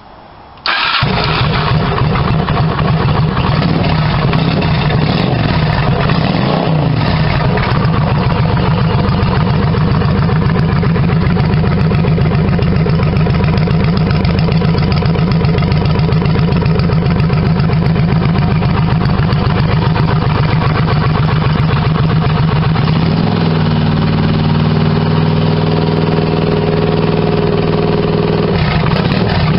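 Honda Shadow 750 V-twin with a One Way Customs aftermarket exhaust starting up under a second in, then running loud at idle. There is a quick throttle blip about six seconds in. Later it holds a steadier, more even note for several seconds before dropping back.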